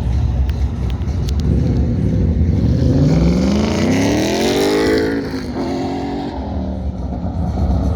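A pro touring truck's engine accelerating hard on an autocross course, its pitch climbing steadily for a couple of seconds, then falling away about five seconds in as the driver lifts or shifts.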